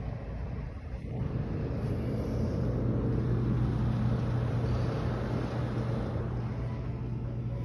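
A steady low mechanical hum with a rushing noise, swelling about a second in and then holding steady.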